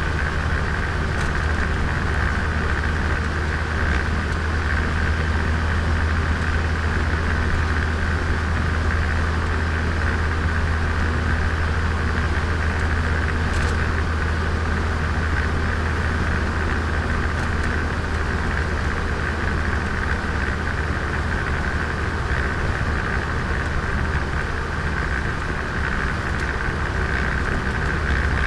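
Turbocharged Nissan Micra engine and exhaust running at a steady, even pitch, heard onboard, with a strong low hum.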